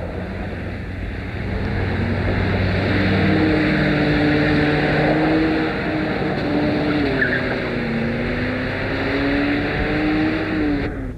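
A car engine running hard as the car slides on dirt, its pitch climbing, dipping and climbing again over a steady hiss. The sound cuts off suddenly near the end.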